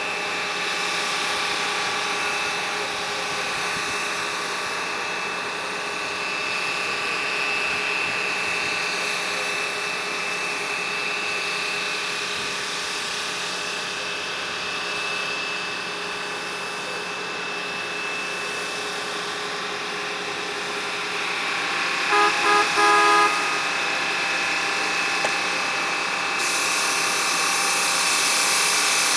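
A machine engine running steadily in the rail yard, with three short horn blasts close together about three-quarters of the way through.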